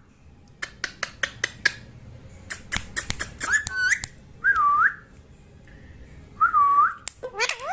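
Pet parrot making a quick run of sharp clicks, then three short whistled notes that each dip and rise again.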